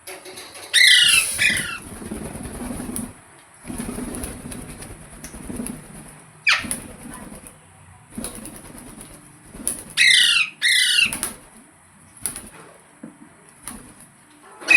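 A green parrot, a rose-ringed parakeet, giving sharp, falling screeches: two about a second in, one near the middle, two more around ten seconds in and one at the end. Between the calls come stretches of rustling.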